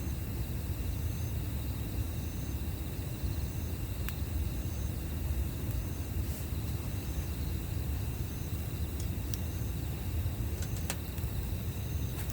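Campfire burning with a few sharp crackles and pops, over a low steady rumble. An insect chirps at an even pace, a little more than once a second.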